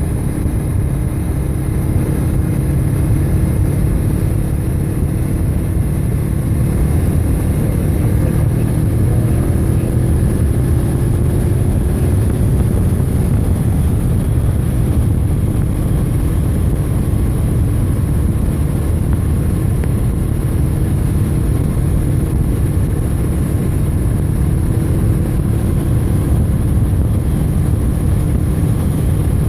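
Steady rumble of wind and road noise on a moving rider's microphone, with a faint engine-like tone gliding slowly upward from about a quarter to nearly halfway through.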